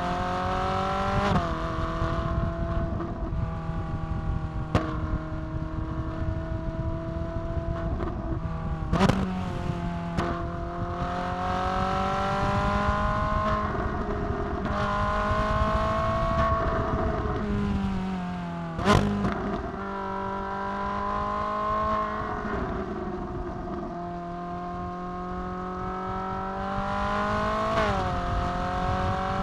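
Ferrari 458 Italia's 4.5-litre V8 running under way at road speed, its note rising and falling as it pulls and eases off, with several sudden drops in pitch. Two sharp cracks stand out, about nine and nineteen seconds in.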